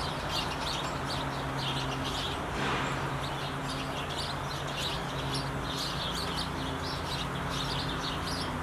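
Small birds chirping and chattering, many short high calls repeated throughout, over a low steady hum.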